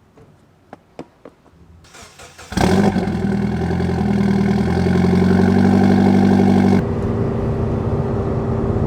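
A few clicks, then a car engine starts about two and a half seconds in and runs at a steady fast idle. Near the end it drops suddenly to a lower, quieter idle.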